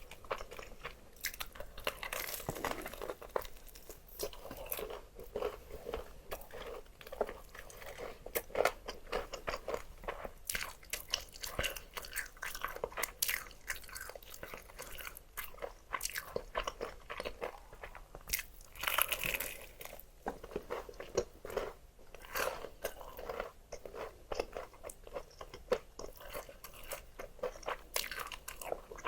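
Mouth sounds of eating crispy fried chicken: repeated bites and chewing through crunchy batter, with irregular crackling crunches throughout and a denser flurry of crunches a little past the middle.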